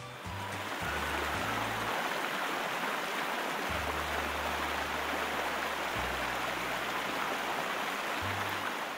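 Running-water sound effect, a steady rush like a hose gushing, that starts just after the beginning and stops abruptly at the end.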